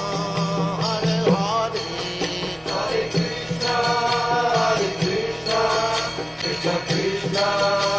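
Devotional mantra chanting: a sung melody that glides in pitch over a steady low drone.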